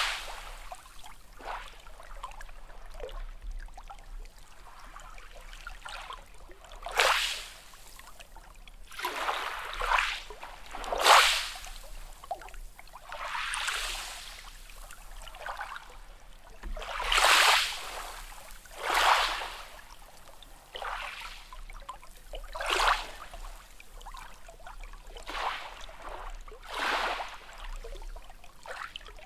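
Small sea waves lapping and splashing in short, irregular surges every one to three seconds, the strongest about eleven and seventeen seconds in.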